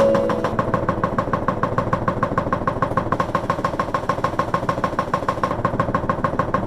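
Spin dryer of a COSTWAY portable mini washing machine spinning, a loud, fast, even rattle of about ten pulses a second.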